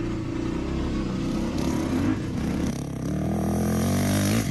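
Dirt bike engine running, its pitch wavering and then climbing through the second half as it revs up.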